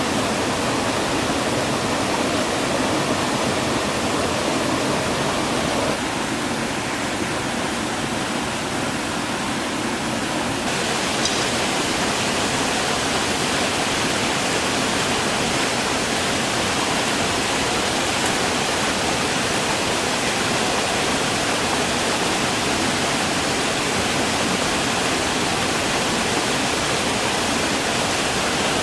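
Rushing water of a mountain stream or waterfall: a steady, full hiss. Its tone changes abruptly about 6 seconds in and again about 11 seconds in.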